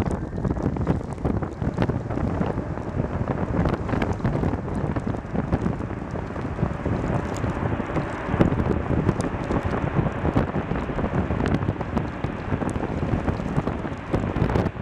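Strong wind rushing and buffeting over the microphone: a dense, steady low roar with scattered crackles.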